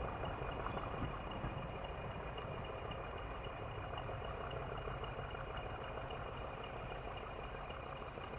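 Diesel locomotive engine running steadily, with a low rumble and a steady high-pitched whine, slowly getting quieter.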